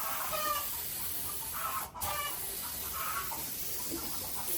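A steady spraying hiss, as from a compressed-air spray or blow gun, cuts out briefly about two seconds in and then resumes. Hens cluck several times over it.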